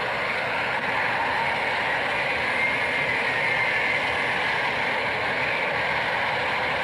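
Steady rushing noise of a passing vehicle, with a faint whine that drifts slightly in pitch.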